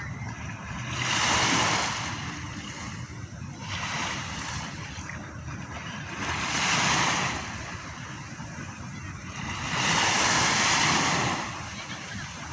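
Sea waves breaking and washing ashore, the surge of water swelling and fading four times, every few seconds.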